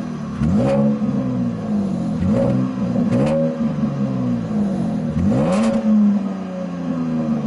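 Engine running through a Flowmaster Super 10 muffler held over its exhaust, revved three times, each rev rising and dropping back to a steadier idle.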